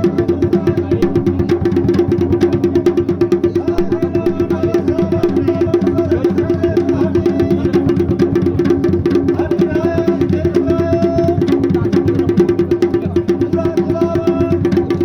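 Fast, even drumming for the Garhwali Pandav dance, in the dhol-damau style, with a sustained tone and a wavering melody line carried over the beat.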